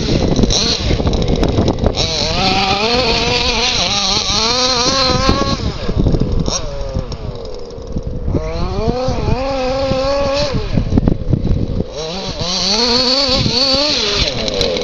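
FG Marder Beetle 1/5-scale RC buggy's 29cc two-stroke petrol engine with tuned expansion pipe, revving up and down as the car is driven. The pitch rises and falls in repeated waves. It drops lower about halfway through, then climbs again.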